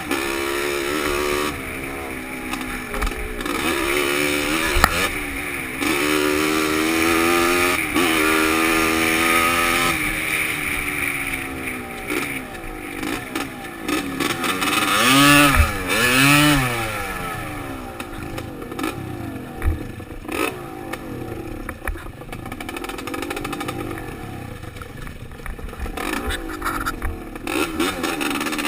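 Dirt bike engine on a trail ride, revving up and down as the rider accelerates and eases off, with two quick sharp revs about halfway through, then running lower and quieter near the end. It is heard from a helmet-mounted camera.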